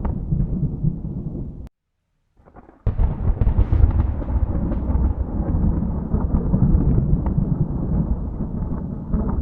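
Thunder rumbling low and heavy. It cuts off to silence a little under two seconds in, then a sharp crack about three seconds in sets off a new long, rolling rumble.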